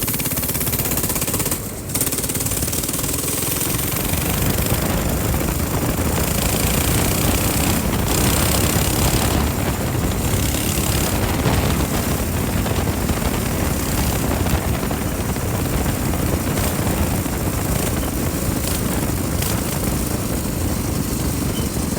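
Minibike engine running steadily while riding, with heavy wind rush on a chest-mounted microphone. There is a brief dip about two seconds in.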